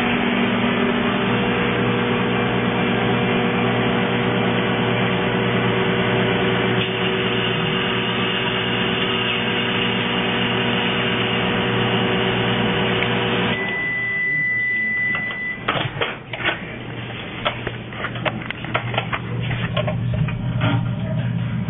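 Microwave oven running with a steady hum for about 14 seconds, heating a grape. It then stops and gives one long beep of about two seconds to signal the end of the cycle. A few clicks and knocks follow.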